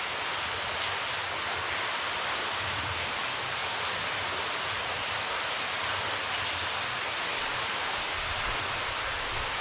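Water falling from a limestone cave's ceiling in many streams and drips, a steady rain-like rush with a few faint drip ticks.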